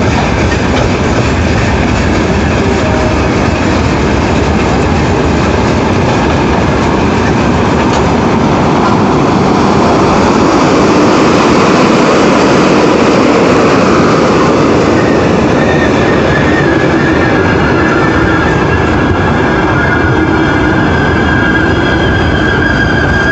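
Arriving passenger train rolling past, wheels clattering over the rail joints. From about two-thirds of the way in, a high wheel and brake squeal joins in as the train slows.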